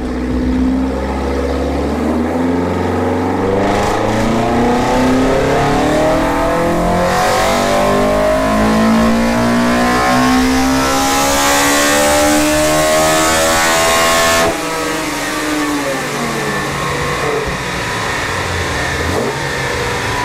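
Modified Toyota 4A-GE four-cylinder with individual throttle bodies on a full-throttle chassis dyno pull, the engine note climbing steadily in pitch for about thirteen seconds. About fourteen seconds in the throttle shuts suddenly and the revs fall away as it coasts down.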